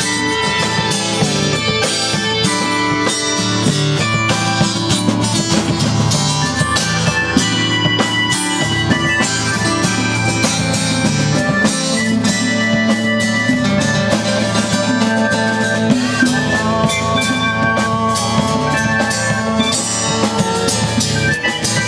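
Live band playing an instrumental rock jam: guitar lines over a steady drum kit groove.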